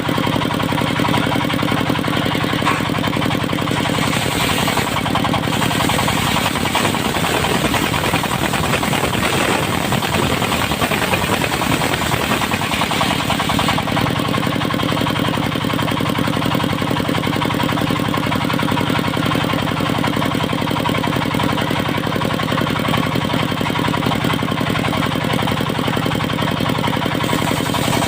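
Engine of a portable circular sawmill running steadily. From about four seconds in to about fourteen seconds its sound turns rougher and less even, then settles back.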